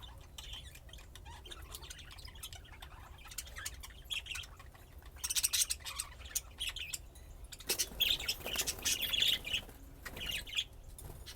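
Pet budgerigars chirping and chattering, with many short chirps and clicks. There are louder bursts of busy chatter about five seconds in and again around eight to nine seconds.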